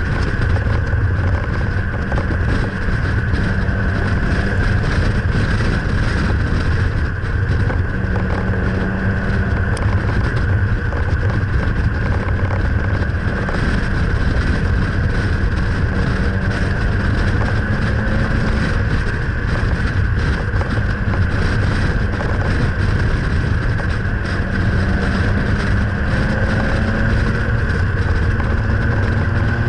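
Nissan Pulsar GTI-R's turbocharged SR20DET four-cylinder engine at a steady cruise, heard from a camera mounted on the car's outside, mixed with heavy wind and road noise.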